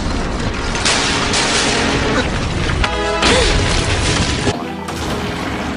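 Rumbling crash and crumble of breaking stone over background music, with a sudden cut to a different clip about four and a half seconds in.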